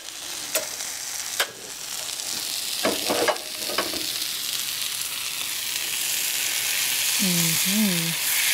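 Onions sizzling as they fry in a pan on a gas burner, the sizzle growing louder over the last few seconds. A few sharp clicks come in the first half.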